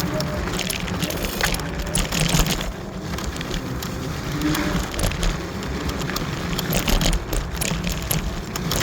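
Riding noise from an electric scooter: wind buffeting the microphone with a heavy low rumble, and tyres rolling over a rough path with scattered clicks and knocks.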